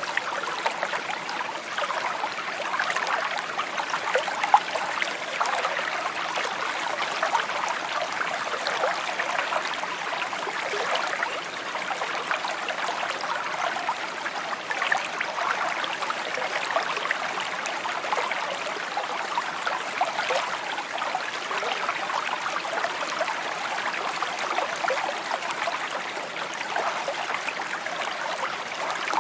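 A small shallow stream babbling over stones, a steady flow with many small splashes and trickles.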